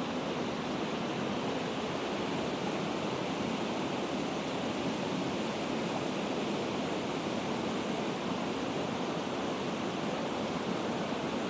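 Waterfall with water pouring down in a steady, even rush that does not change.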